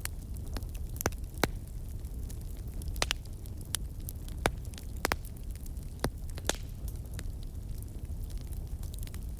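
Fire burning in a fireplace, crackling with a dozen or so sharp, irregular pops over a low steady rumble.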